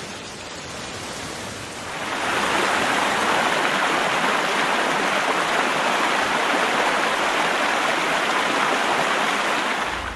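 Rushing floodwater, a steady rush of water that grows louder about two seconds in.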